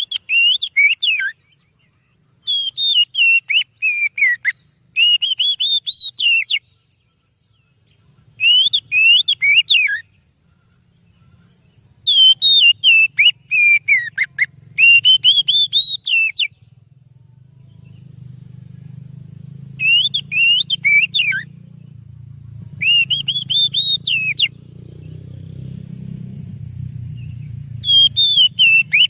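Oriental magpie-robin (kacer) singing: loud whistled, warbling phrases about two seconds long, repeated with short pauses between them. A faint low hum sits underneath and grows in the second half.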